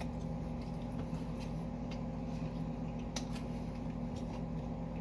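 A steady low hum with faint, scattered small clicks and rustles of eating.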